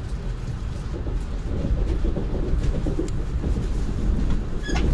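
Lastochka electric train running, heard from inside the carriage: a steady low rumble of wheels on rail. From about a second and a half in there is irregular knocking and rattling, and there is a sharp click near the end.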